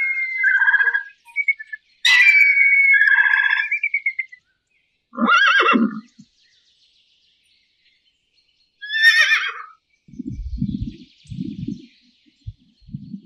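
A sequence of animal calls. First come loud, high yelping calls of an African fish eagle, the second of them trailing off in a quick series of notes. Then a short horse whinny a little after five seconds, another high call around nine seconds, and a run of low pulses, about one a second, in the last three seconds.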